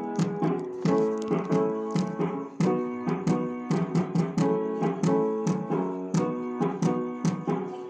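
Keyboard playing chords over a steady, regular beat.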